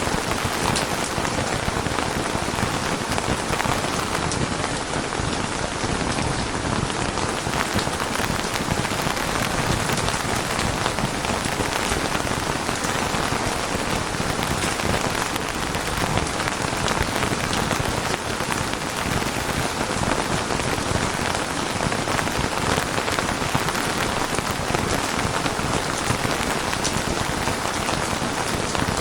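Steady rain falling on a surface, a constant hiss with individual drops ticking through it.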